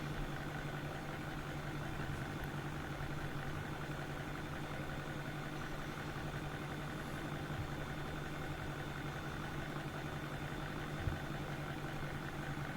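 Steady low machine hum with a faint high whine running under it; one light knock about eleven seconds in.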